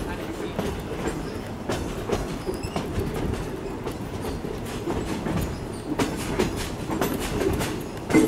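Open railroad passenger car rolling along the track: a steady rumble with irregular clicking and clacking of the steel wheels over the rails.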